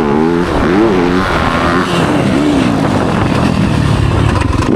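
Motocross bike's engine revving up and down under throttle, its pitch rising and falling several times.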